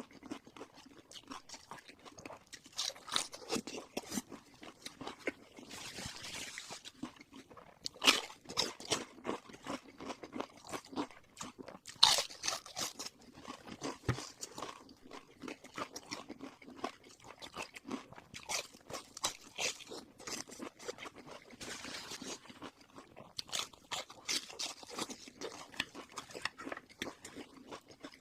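Mouth sounds of someone eating crispy fried pork in chili sauce: a steady run of crunchy bites and chewing, with sharper, louder crunches about 8 and 12 seconds in.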